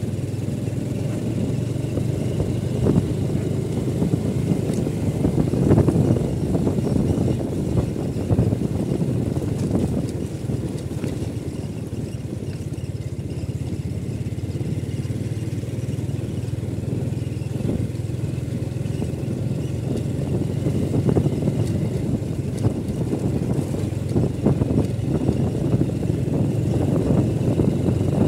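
Motorcycle engine running steadily while riding, with a low rumble that grows a little louder near the end.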